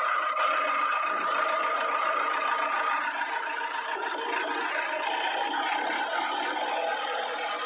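A motor running steadily with a light rattle and a constant whine.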